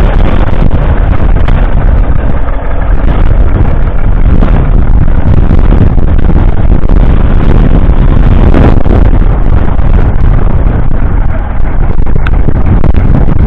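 1947 Fordson Model N's 4.4-litre four-cylinder petrol/TVO tractor engine running, loud and steady close to the microphone.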